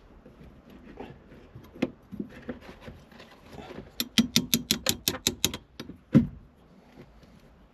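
Accelerator pedal assembly being worked loose from its mounting: scattered clicks and handling noises, then a quick run of about ten sharp clicks, then a single heavy knock.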